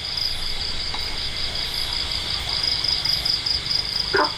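Crickets trilling steadily, a fast pulsing high chirr that never lets up, over a low rumble.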